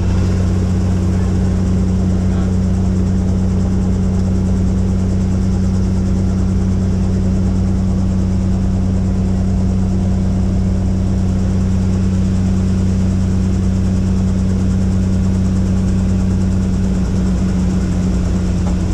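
Helicopter running with a steady low drone from its rotor and engine, holding an even pitch and level throughout.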